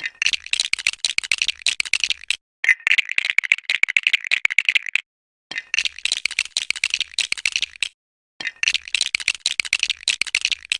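Small plastic Lego pieces clicking and rattling together in four runs of fast, dense clatter, each about two and a half seconds long with short silent breaks between them.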